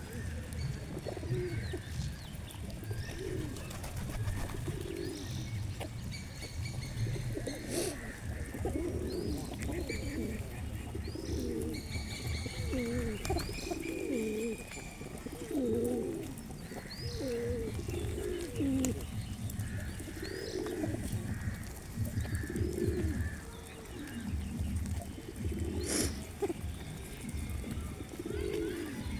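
Pigeons cooing over and over, with short higher chirps from smaller birds mixed in. A steady low rumble runs underneath, and there are two sharp clicks.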